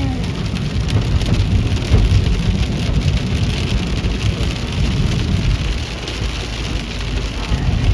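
Heavy thunderstorm rain pouring down: a dense, steady hiss of drops over a low rumble.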